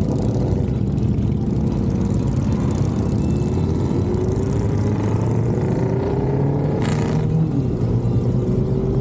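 Motorcycle engine running on the road under a steady low rumble of wind and road noise, its pitch climbing slowly as it accelerates over the last several seconds. A short hissing burst comes about seven seconds in.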